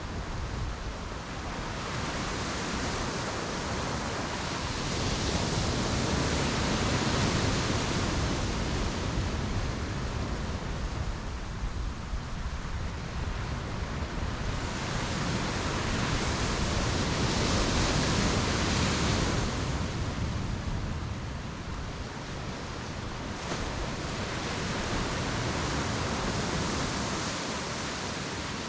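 Ocean surf breaking and washing up the beach, swelling and fading in three long surges about ten seconds apart.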